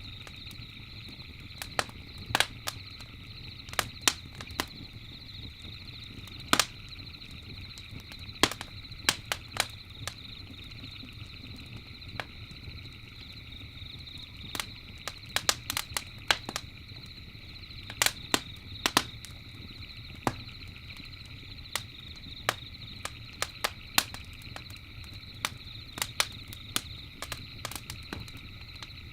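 Campfire crackling, with irregular sharp pops and snaps, sometimes several in quick succession, over a steady high-pitched background drone.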